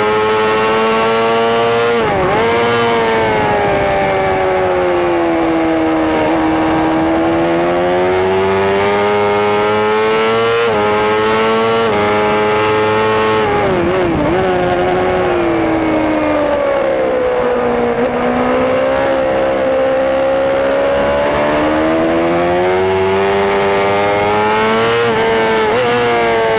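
Racing motorcycle engine heard on board at high revs under race load, its pitch climbing and sinking through the laps with sudden drops at gear changes, about four times, one with a short wobble of throttle blips, alongside a steady rush of wind.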